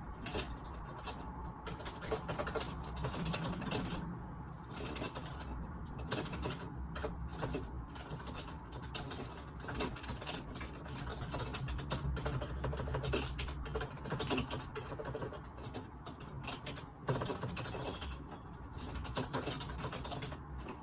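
Typing on a computer keyboard, picked up by a phone microphone: quick runs of keystrokes with short pauses between them.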